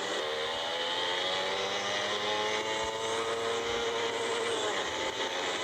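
Motorcycle engine running under throttle, its pitch climbing slowly and then falling near the end.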